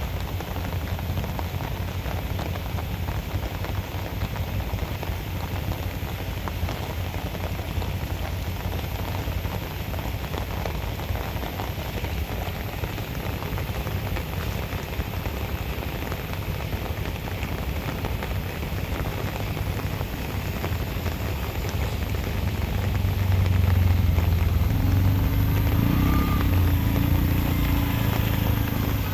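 Steady rain falling on a flooded street, an even hiss. About three-quarters of the way through, a motor vehicle's low engine rumble swells, then eases off near the end.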